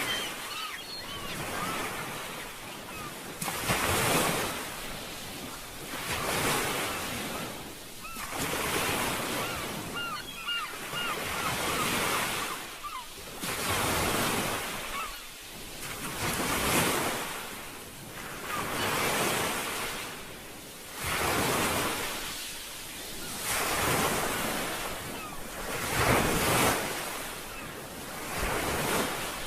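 Sea waves washing in and out, a swell about every two to three seconds.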